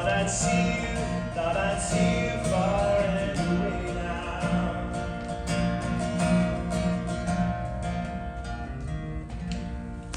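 Acoustic guitar fingerpicking the closing instrumental bars of a song, easing slightly quieter toward the end.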